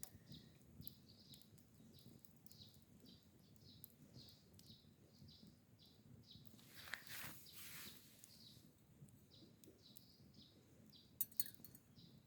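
Faint bird chirping, short high notes repeated about two to three times a second, with a soft rush about seven seconds in and two sharp clinks near the end.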